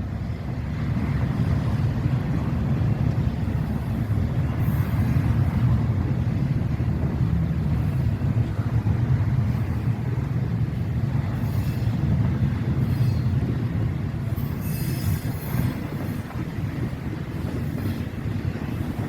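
A train rolling slowly past at close range, a steady low rumble of wheels and cars, with a few brief high-pitched sounds on top.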